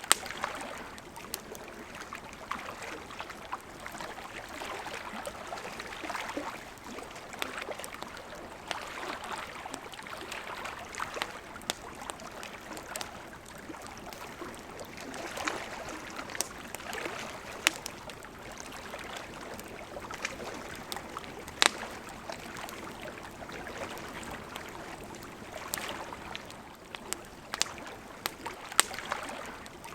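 Campfire crackling, with irregular sharp pops scattered through, the loudest about two-thirds of the way in, over gentle lake water lapping at the shore in slow swells.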